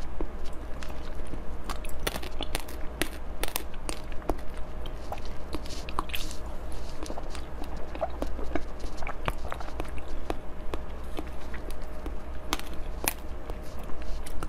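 Close-miked chewing and crunching of frozen chocolate-coated treats: a quick, irregular run of sharp crackling clicks, over a steady low hum.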